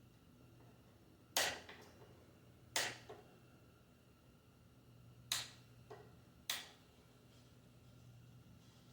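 Small nails being pulled out of a wooden cabinet-door panel: four sharp clicks and knocks a second or two apart, some followed by a fainter click, over a faint steady hum.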